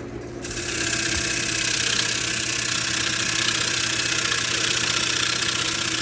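Wood lathe running with a steady motor hum while a gouge cuts a soft, spalted sweetgum blank. The cutting makes a steady, even scraping hiss that comes in about half a second in.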